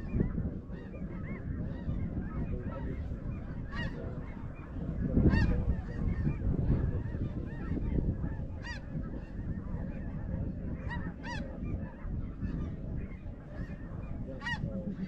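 Snow geese calling, many short high yelps overlapping throughout, over a low rumble.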